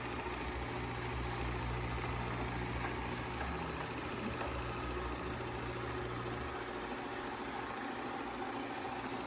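Robot vacuum running: steady motor and brush noise, with a low hum that drops away about six and a half seconds in.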